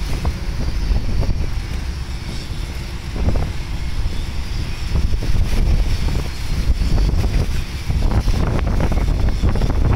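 Strong sea wind buffeting the microphone as a heavy, steady rumble, with louder rushing surges about three seconds in and again near the end.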